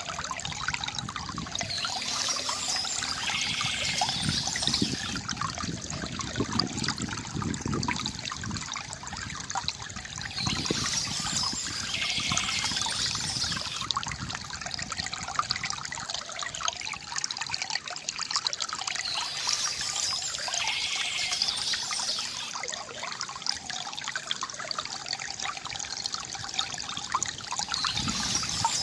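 Water trickling and splashing steadily from a bamboo fountain, with a brief brighter splash recurring about every eight to nine seconds.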